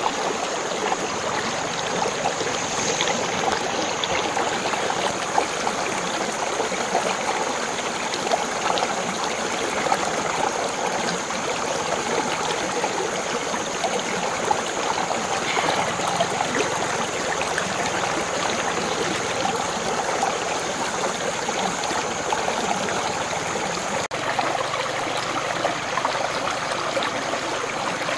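Water flowing steadily in a stream, a continuous rushing and trickling, with a brief break about three-quarters of the way through.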